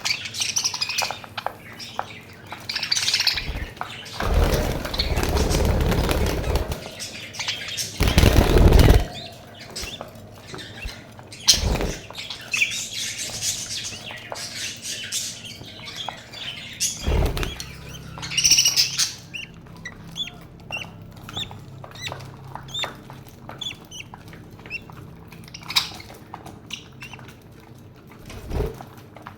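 Pet budgerigars chirping and chattering, with squawks and a run of quick repeated chirps in the second half. Several loud rustling bursts break in, the loudest about eight seconds in.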